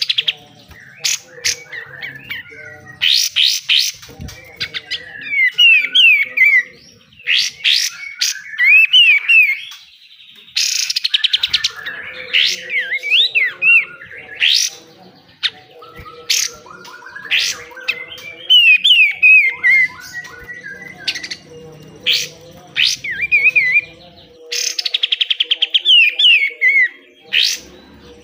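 Kapas tembak bulbul singing excitedly: loud, harsh, rapid-fire rasping bursts (the 'besetan' that keepers prize) alternating with short, falling whistled phrases.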